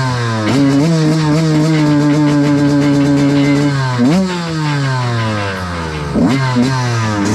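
Dirt bike engine revving: it holds a steady pitch for a few seconds, rises sharply about four seconds in and falls away, then gives a couple more quick revs near the end.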